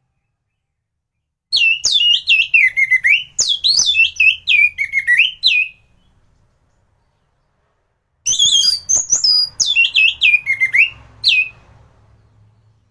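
Orange-headed thrush (anis merah) singing: two rapid phrases of quick, downward-sweeping whistled notes, separated by a pause of about two and a half seconds.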